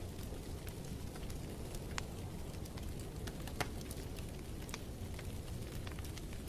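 Wood fire crackling in a fireplace: a steady low rumble with irregular sharp snaps and pops, two louder ones about two and three and a half seconds in.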